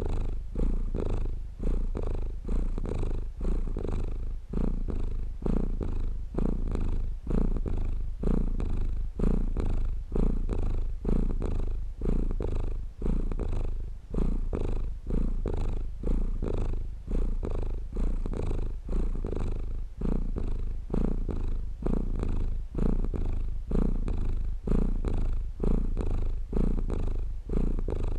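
Domestic cat purring close to the microphone: a continuous low rumble that swells and dips in an even rhythm with each breath, about every two seconds.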